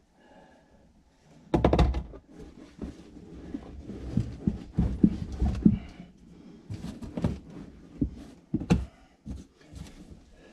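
Irregular knocks, thuds and rustling from pulling up a car's interior carpet and prying at the snaps that hold it down. A loud clatter comes about one and a half seconds in, and scattered knocks follow.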